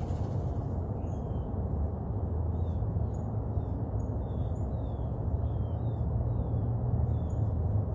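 Small birds chirping in short, repeated high notes over a steady low rumble.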